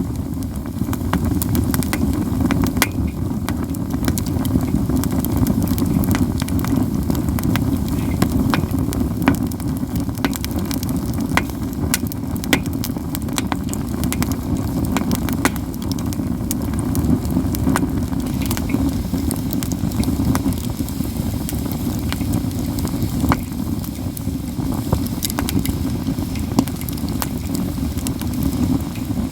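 Katsura wood campfire crackling continuously, with frequent sharp pops over a steady low rush.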